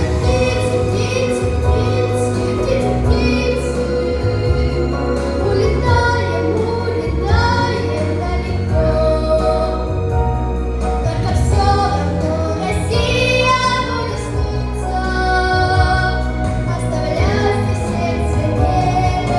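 A young girl singing a song over a backing track, her held notes bending in pitch above a steady bass accompaniment.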